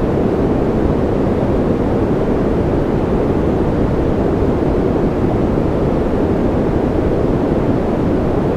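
Steady, even noise track of the kind sold as white noise for sleep, a constant deep rush with no drops or events; most of it sits low, falling away in the treble, so it sounds darker than true white noise.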